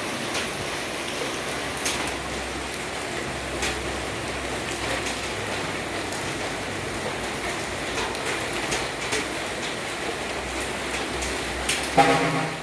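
Steady rain falling, with many sharp close drop hits over a soft low rumble. About twelve seconds in, a brief loud pitched sound cuts through.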